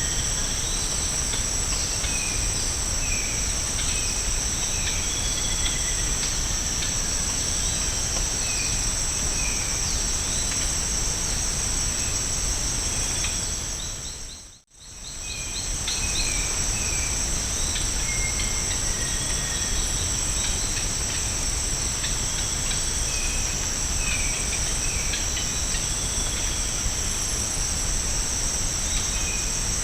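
Tropical rainforest ambience: a steady, high-pitched insect drone with many short bird chirps and calls scattered over it. About halfway through, the sound fades out briefly and comes back.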